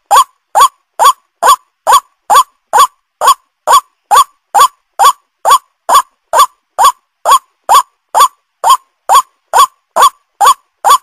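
White-breasted waterhen (ruak-ruak) call, from a lure recording. Short rising 'kruak' notes are repeated very evenly, about two a second, with no change in pace.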